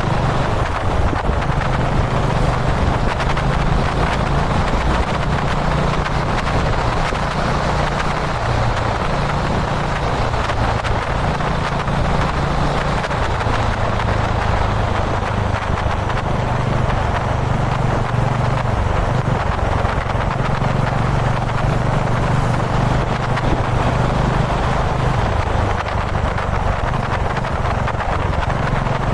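Dominar 400's single-cylinder engine running steadily while cruising, its low note rising and falling slightly as the revs change, under a constant rush of wind noise.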